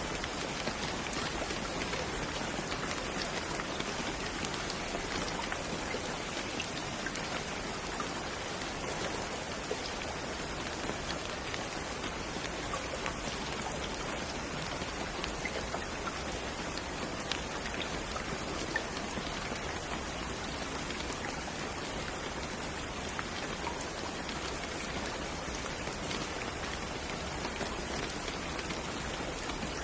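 Steady rain falling on a surface, an even hiss with scattered individual drop strikes.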